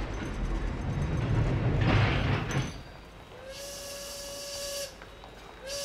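Train rumbling, growing louder toward about two seconds and then dropping away abruptly. Then a steady whistle with a hiss of steam is held for about a second and a half, and it starts again near the end.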